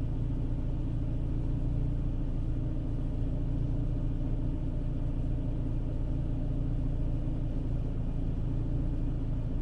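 Renault Clio III's 1.2-litre four-cylinder petrol engine, converted to LPG, idling steadily with a low hum. The owner says it still has an engine misfire.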